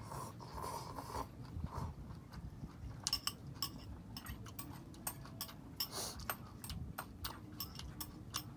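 A person eating ramyun noodles: chewing with many short, irregular mouth clicks and smacks, over a low steady background rumble.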